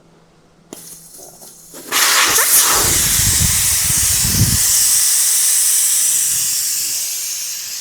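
Air hissing out of a 1930 Ford Model A pickup's tire as it is let all the way down, so the bead can be broken and the leaking rim sealed. The hiss starts suddenly about two seconds in and slowly fades.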